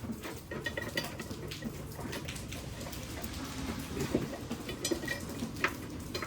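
Hand tools and hardware being handled: scattered, irregular light clicks and metallic taps over a low steady hum.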